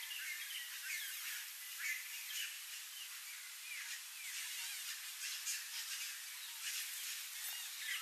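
Wild birds chirping and calling, most often in the first few seconds, over a steady outdoor hiss.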